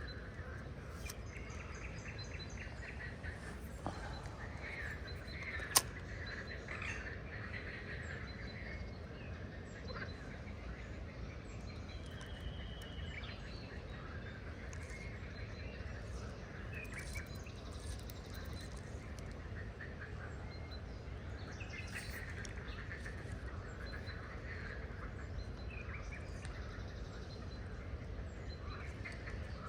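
Wild birds calling and chirping on and off over a steady low background rumble, with one sharp click about six seconds in.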